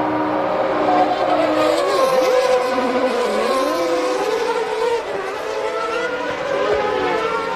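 1990 Formula One race car engines at racing speed. Several engine notes overlap and their pitches sweep down and up, about two and three seconds in and again near the end, as cars pass and change gear.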